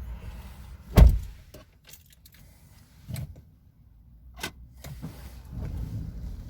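A car door shuts with a heavy thud about a second in, and the background goes much quieter as if from inside the closed car. A few small clicks and knocks follow.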